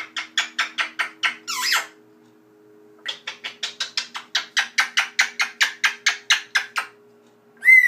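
Pet bird calling in a rapid series of short sharp notes, about five a second, in two runs with a longer note between them, then a single call near the end.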